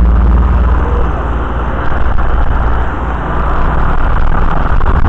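Two Lennox central air-conditioner outdoor units, a 2.5-ton and a 2-ton with Copeland scroll compressors, running together: a steady compressor hum under the loud whoosh of the condenser fans.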